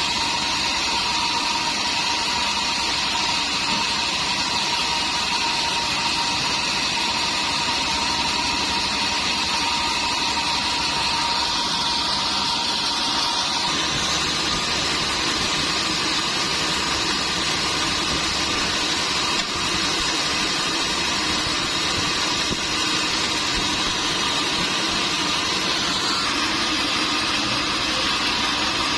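Sawmill machinery running steadily, a dense mechanical noise with high whining tones that shift about halfway through.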